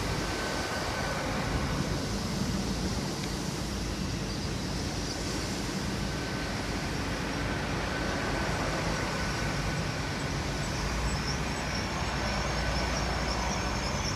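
Great Western Railway Class 802 IET bi-mode train moving through the station under its underfloor diesel engines: a steady rumble of engines and wheels with a faint high whine over it.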